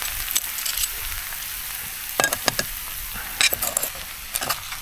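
Food and gravy sizzling in a hot pan just after the stove's gas is turned off, a steady hiss with a few light clicks.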